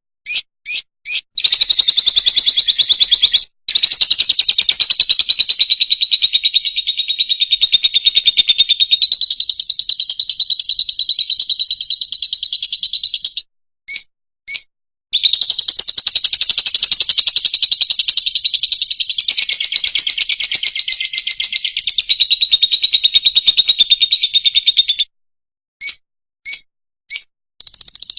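Fischer's lovebird singing: two long, fast, even trills of high repeated notes, each about ten seconds, with a brief break between them and short separate chirps before, between and near the end.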